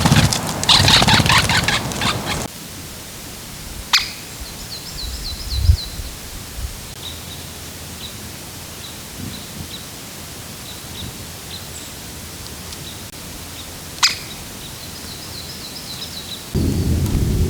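Woodland birdsong: two short trills of quick falling high notes, with thin high chirps repeated about twice a second between them. A loud rushing noise covers the first two seconds and comes back near the end, and two sharp clicks stand out.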